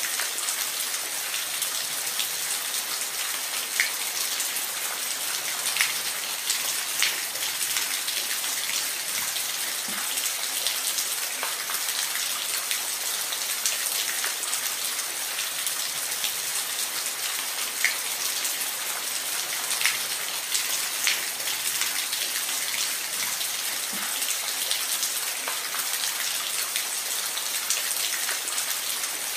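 Steady rain, an even hiss dotted with the sharper taps of individual drops striking a surface.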